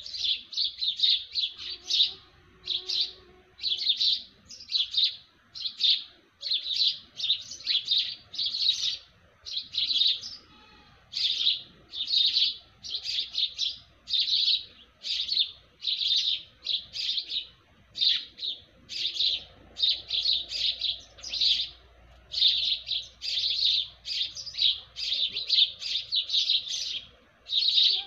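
Birds chirping: a steady run of short, high chirps, about two to three a second, without a break.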